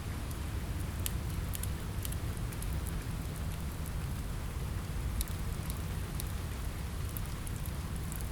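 Steady rain on a window mixed with a crackling fireplace: an even hiss over a low rumble, with scattered sharp little crackles and ticks.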